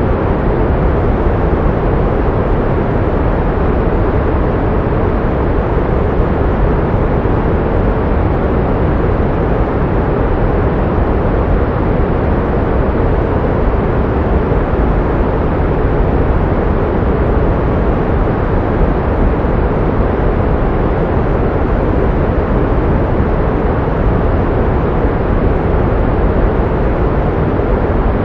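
Steady synthetic pink noise: an even, unchanging hiss weighted toward the low end, softer in the highs.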